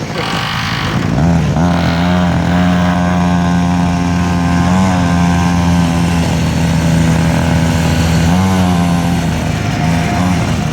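The 49cc two-stroke engine of a homemade mini bike running at a steady high speed, with two short rises in pitch and a dip near the end.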